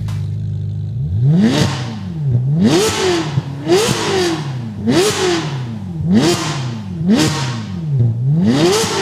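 Ferrari California V8 through a Capristo exhaust, idling for about a second and then blipped hard about seven times, roughly once a second, each rev rising sharply and falling back.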